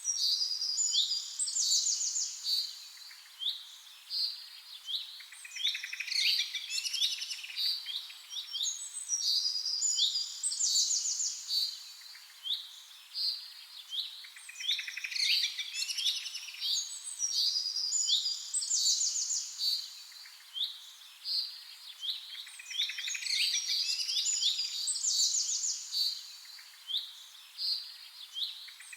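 Songbirds singing: quick high chirps and trilled phrases, with a dense burst of song returning about every eight seconds.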